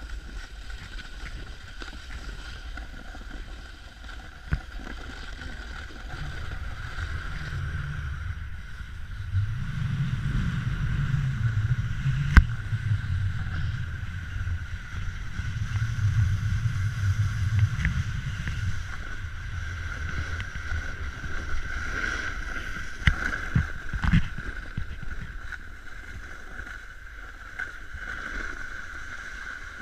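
Snowboard sliding down a snow slope, its edge scraping and rushing over the snow, with wind buffeting the microphone. A low rumble grows louder from about a quarter of the way in and eases off past the middle, and a few sharp knocks come near the middle and later on.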